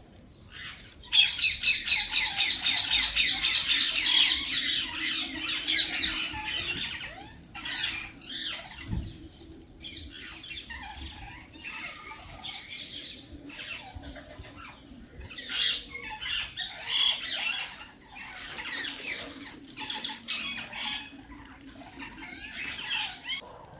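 Birds squawking and chattering. A loud rapid run of harsh high calls, about six a second, starts about a second in and lasts some three seconds, followed by scattered shorter bursts of calls.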